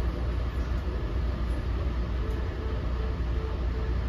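Steady low rumble inside a NJ Transit MultiLevel passenger coach running at speed: wheels on rail and the car body's running noise.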